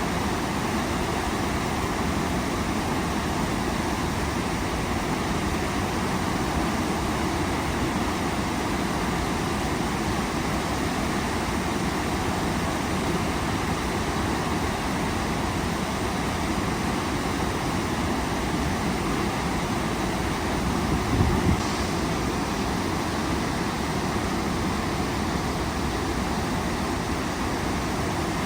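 Waterfall, a steady rush of falling water with no change in level. A brief low thump about three quarters of the way through.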